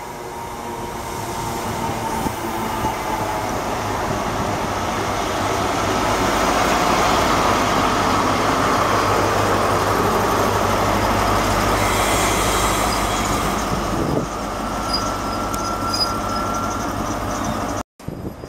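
An InterCity 125 HST running into the platform, with wheels on rail and the rear Class 43 diesel power car passing close. The noise builds over several seconds, holds, then eases as the train slows, with a thin high squeal near the end.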